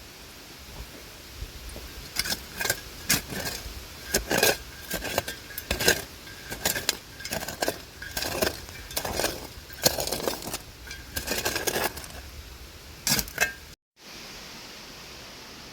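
A digging tool striking and scraping through dump debris: repeated sharp clinks and knocks of broken glass and bits of metal in the soil, coming irregularly about once or twice a second.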